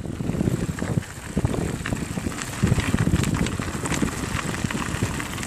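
Bicycle rolling along a rough trail: a steady rumble of tyres on the ground with many small clicks and rattles from the bike, and some wind on the microphone.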